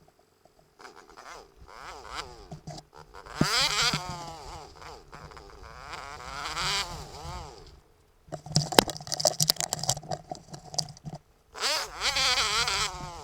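YCF 125 pit bike's single-cylinder four-stroke engine revving up and dropping back several times, its pitch climbing and falling, with a few brief drop-outs and a sharp knock about two-thirds of the way through.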